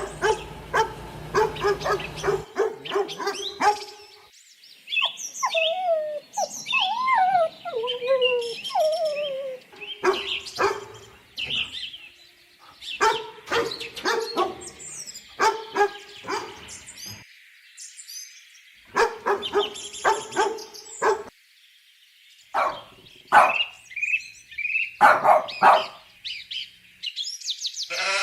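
Dog barking in bursts of short barks. About five seconds in there are a few seconds of wavering, gliding whines. Higher-pitched yips come near the end.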